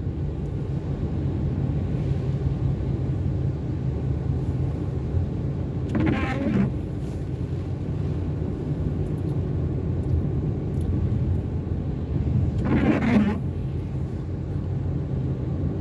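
Steady drone and rumble of a car's engine and tyres on wet road heard from inside the cabin. Twice, about six seconds apart, the windscreen wiper blades squeak briefly across the glass.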